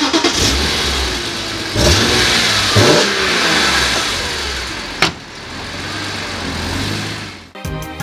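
BMW E46 M3's S54 straight-six engine being blipped. The revs rise and fall in quick bursts, strongest about two and three seconds in. A sharp knock comes about five seconds in, then the engine runs more steadily. Music starts near the end.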